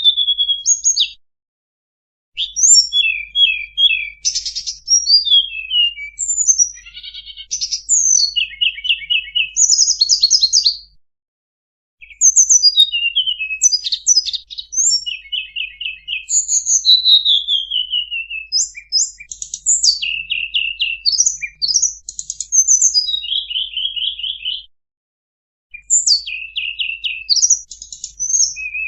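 A small songbird, the one known in Java as tledekan bambu, singing a lure (pikat) song: rapid high phrases of clear whistles, falling slurs and buzzy trills. The phrases come in long runs that stop dead twice, for about a second each time, before starting again.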